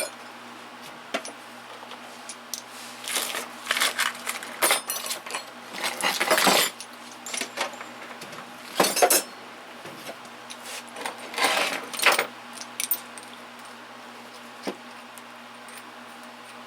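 Metal hand tools clinking and rattling in bursts as they are handled and sorted, with a steady low hum underneath.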